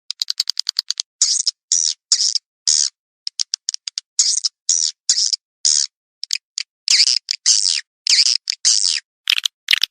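Swiftlet lure recording: high chirping twitters of swiftlets, groups of short chirps alternating with quick runs of rapid clicks, with dead-silent gaps between each burst, played as a call to draw swiftlets in.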